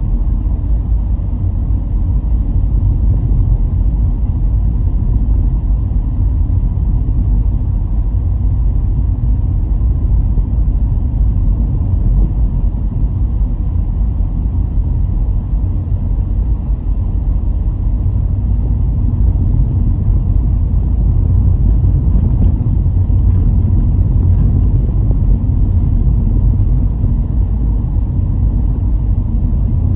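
A car driving along at a steady pace: a continuous low rumble of road and engine noise that holds steady throughout.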